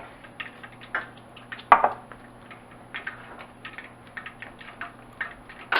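Irregular light clicks and taps of kitchenware, a few a second, as all-purpose flour is put into a bowl, with a sharper knock about a second and a half in. A faint low hum runs underneath.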